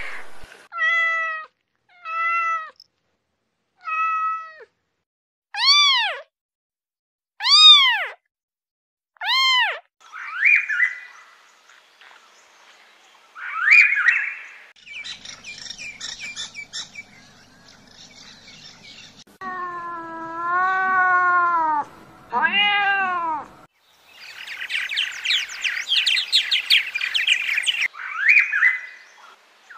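A cat meowing over and over, with short meows at first and longer, wavering ones later. Short bird chirps and a burst of busy chirping come between the meows.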